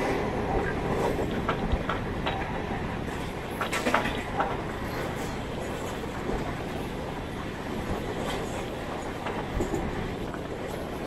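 Mumbai suburban EMU running along the line, heard from aboard: a steady rumble of wheels on rail with scattered clicks and knocks.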